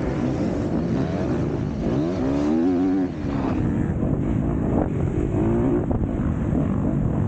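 Motocross bike engine running hard, the revs rising and falling several times as the rider works the throttle and gears, over a steady rush of noise.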